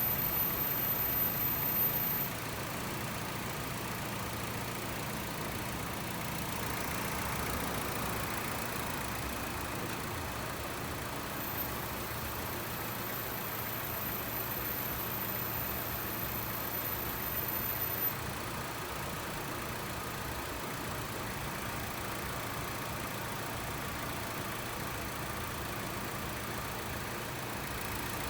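Honda WR-V's four-cylinder engine idling steadily with the air-conditioning compressor engaged and running normally, its earlier loud droning cured by a replacement compressor. The radiator's electric fans are blowing, and the sound drops slightly about two seconds in.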